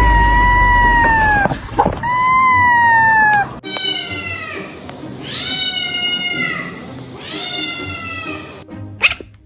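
A cat meowing repeatedly, five drawn-out meows. The first two are long and steady. The last three are shorter and slide downward in pitch.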